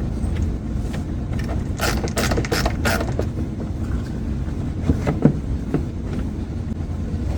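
Clicks, scrapes and a few knocks as the air filter housing is opened and the old filter is handled, over a steady low rumble. The clicks bunch up two to three seconds in, and the sharpest knocks come about five seconds in.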